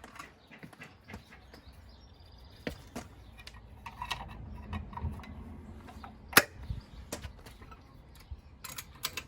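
Faint scattered clicks and light metal knocks from hand work on a car wheel, with one sharper click about six seconds in.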